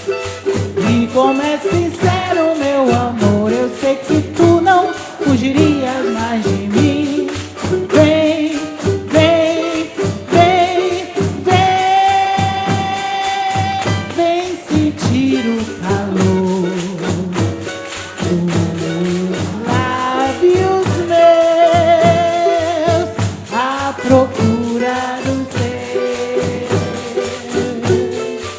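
Live music: a sung melody over an ensemble of pandeiros, Brazilian frame drums with jingles, playing a steady rhythm. A long note is held from about twelve to fourteen seconds in.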